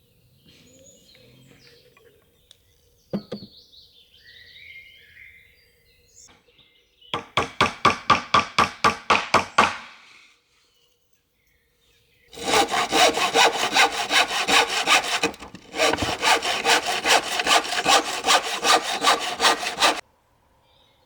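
Rapid rhythmic rasping strokes, about five a second: a short run about seven seconds in, then a longer run from about twelve seconds, broken briefly midway and stopping abruptly near the end.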